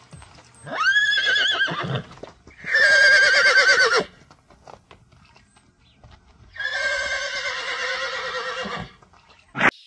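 Three long animal calls with a wavering, quavering pitch, the first rising into it, with a sharp click near the end.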